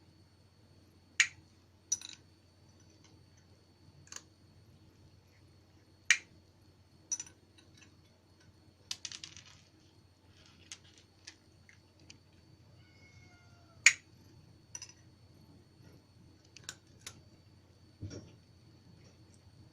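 Sharp, crisp clicks at irregular intervals, about a dozen in all, the loudest about a second in, about six seconds in and near fourteen seconds, over a low steady background hum.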